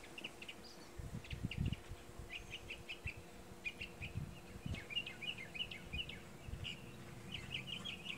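Small birds chirping: many short, high chirps in quick runs, with faint low rumbling underneath.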